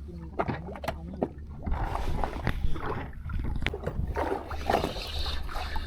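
A fishing boat's engine runs with a steady low drone, with scattered knocks and clatter over it.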